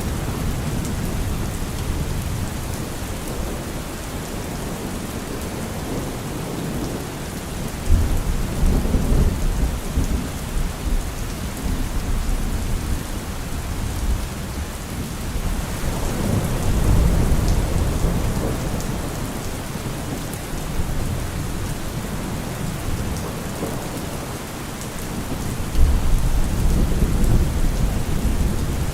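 Heavy rain falling steadily on a car roof, with thunder rumbling three times: a sudden clap about eight seconds in, a slower swelling roll around the middle, and another sudden clap near the end.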